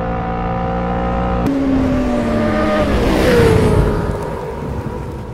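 Chopper motorcycle engine running steadily. About a second and a half in it changes abruptly to a motorcycle passing by, its engine note falling in pitch as it goes past, loudest around the middle.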